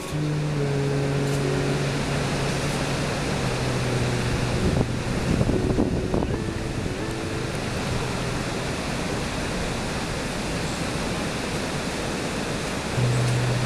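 Ocean surf breaking in a steady rush, a little louder about five seconds in, with wind noise.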